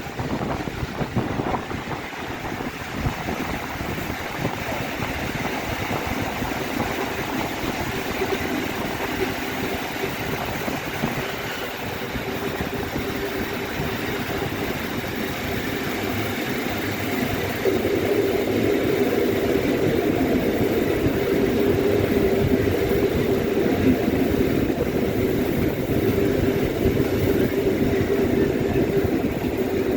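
Passenger train running on the rails: a steady rumble with a humming tone that grows louder about two-thirds of the way through.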